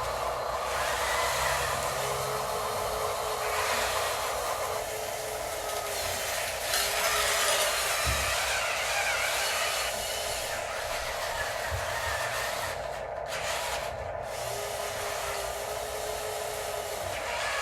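Small electric motors of radio-controlled construction models running with a steady whir, and a higher whine that comes and goes several times as the machines are worked.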